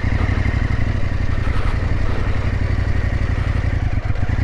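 Motorcycle engine running steadily, with a dense low pulsing that holds even throughout.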